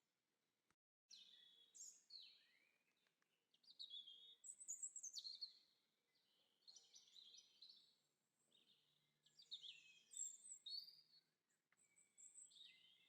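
Faint birdsong: quick, high, warbling chirps and trills in repeated short phrases. The sound drops out completely for a moment about a second in.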